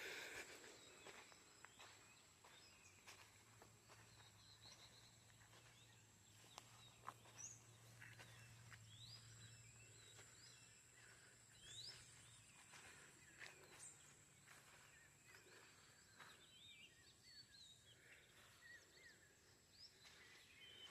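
Near silence: faint outdoor ambience with scattered short, faint bird chirps and a thin steady high-pitched tone.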